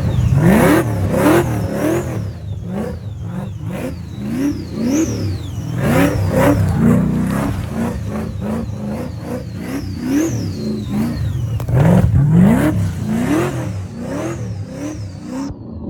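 Supercharged G-Body car's engine revving hard over and over in quick bursts, with the supercharger's high whine rising and falling with each rev.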